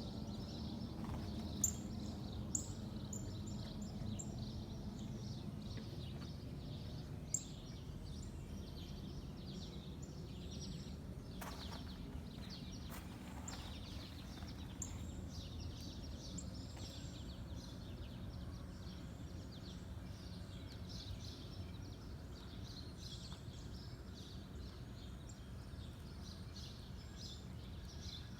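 Small birds chirping in short high calls over a steady low hum of outdoor background noise.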